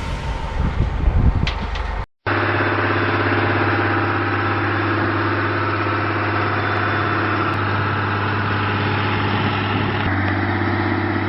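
A heavy truck's diesel engine idling steadily, a loud, even low running sound that comes in after a brief cut to silence about two seconds in.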